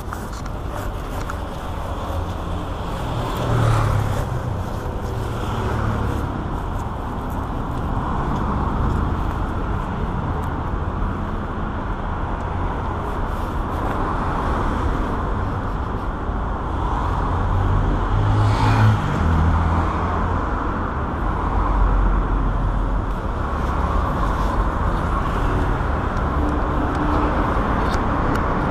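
Motorcycle engine running amid street traffic noise, a steady low rumble that swells louder a few times, around 4, 19 and 22 seconds in.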